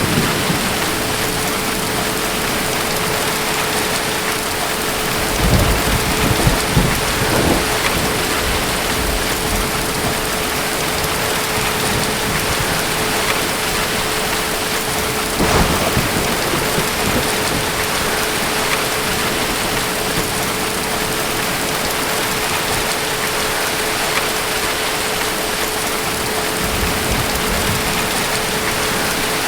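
Steady heavy rain with distant thunder: a rolling rumble about five seconds in that lasts a few seconds, a sharper crack around the middle, and a softer low rumble near the end. A faint steady tone sits under the rain.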